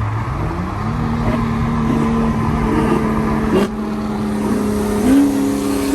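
Car engine running loud. Its pitch dips and then rises about a second in, holds steady, and steps up again near the end. A brief sharp click comes about three and a half seconds in.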